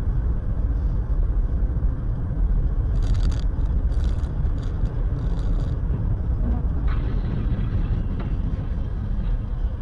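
Steady low road and engine rumble inside a moving car, with a few short hissing sounds about three to six seconds in.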